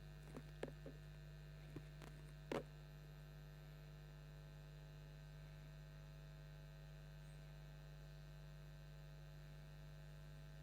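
Near silence with a steady electrical mains hum, with a few faint clicks early on and one brief louder knock about two and a half seconds in.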